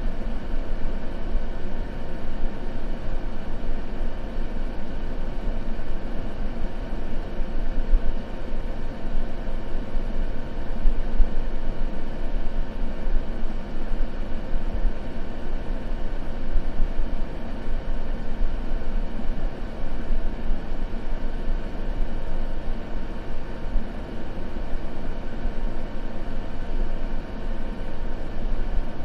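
Continuous white noise: a steady, even rushing with no breaks, weighted toward the low end, with faint steady tones running through it.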